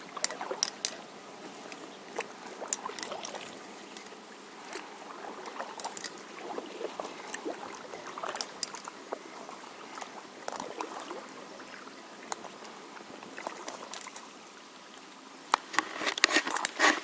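Kayak paddling on a creek: paddle blades dipping and water trickling off them, with scattered small clicks and knocks, and a cluster of louder knocks near the end.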